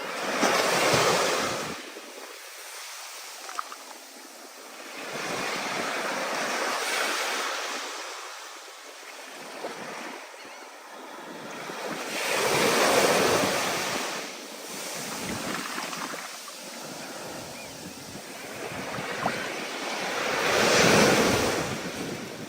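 Ocean surf breaking in slow surges, each wave swelling up and washing back over several seconds, four times, with wind.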